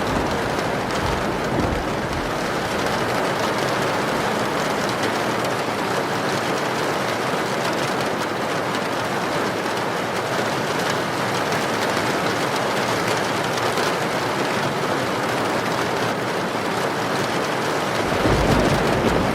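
Heavy rain pouring steadily. A low thunder rumble dies away in the first couple of seconds, and another rumble rolls in near the end.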